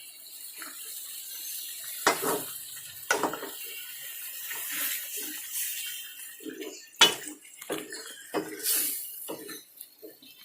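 Kitchen dishes and utensils clinking and knocking, with water running or splashing. There are several sharp knocks, the loudest about seven seconds in.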